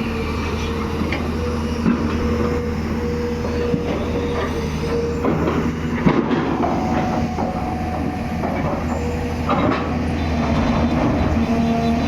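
Excavator's diesel engine running steadily under load, with a whine that changes pitch now and then and a few sharp metal clanks.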